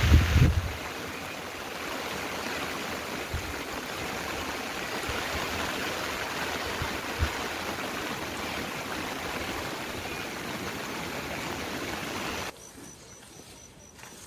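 Steady rushing of running water, with a few dull thuds early on; it stops abruptly about twelve and a half seconds in.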